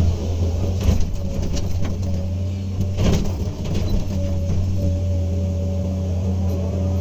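Komatsu PC200 excavator's diesel engine running steadily under work, with a steady whine over the engine note and a few sharp knocks, the clearest about a second in and about three seconds in.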